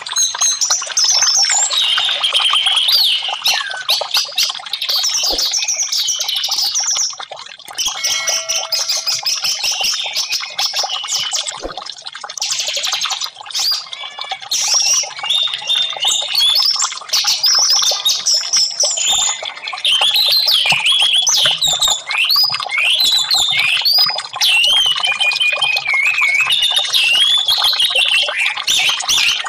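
Orange-headed thrush (anis merah) singing a long, varied song of fast whistled phrases and rapid trills, nearly continuous with a few short lulls.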